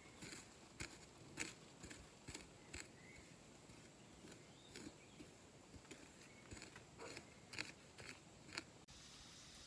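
Faint series of short, sharp clicks at an uneven pace, about one or two a second, stopping near the end.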